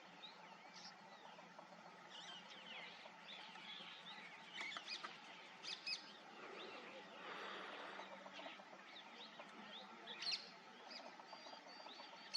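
Small birds chirping, many short high notes and quick sweeping calls that overlap irregularly, faint over a steady background hiss.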